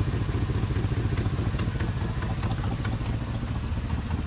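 2004 Chevrolet Silverado dump truck engine idling steadily, with a fast ticking from an exhaust leak at the manifold, where the front manifold bolt is broken.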